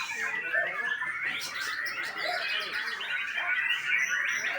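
White-rumped shama (murai batu) singing a rapid, unbroken run of varied chirps and whistles.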